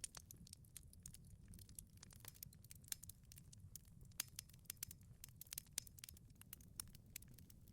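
Wood fire crackling in a wood-fired pizza oven: irregular sharp pops and snaps, several a second, over a low steady rumble.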